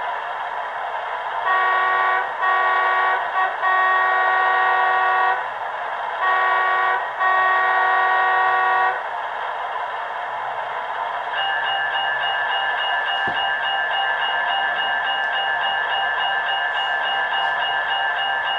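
Sound decoder of a Märklin New York Central ALCO PA-1 model locomotive, playing its diesel engine sound from the model's small speaker. A few seconds in, the multi-chime air horn sounds in a series of short and long blasts in two groups; after it stops, a steady higher tone joins the engine sound.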